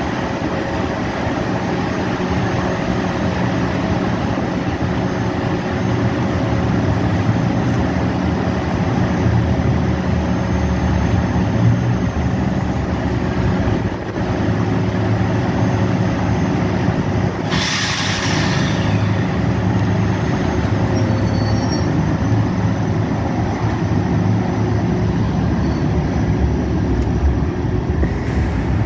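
Metro-North M3 electric multiple-unit train at a station platform: a steady hum and rumble from the standing train, with a short loud burst of air hissing about halfway through, before it pulls out.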